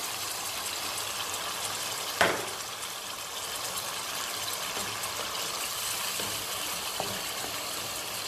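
Cherry tomatoes and leek sizzling in hot olive oil in a frying pan: a steady hiss, with one sharp knock about two seconds in.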